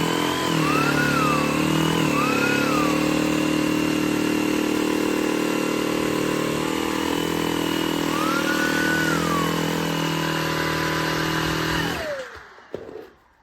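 Shark Detect Clean & Empty cordless stick vacuum's motor running steadily, its pitch briefly rising and dropping back three times, then winding down and stopping about twelve seconds in as it is switched off, followed by a few light clicks.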